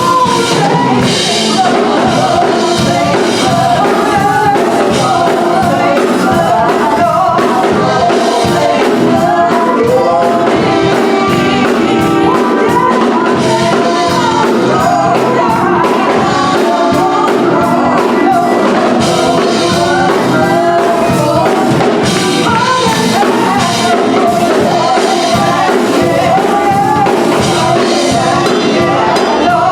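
Gospel song with singing voices over a band keeping a steady beat.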